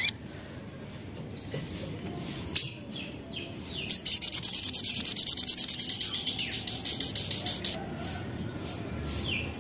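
A sogok ontong (crimson sunbird) singing: a few sharp, high chips and slurred notes, then a rapid, even trill of about ten high notes a second lasting nearly four seconds, loudest at first and then fading. This is the fast trilling song of a bird in breeding condition.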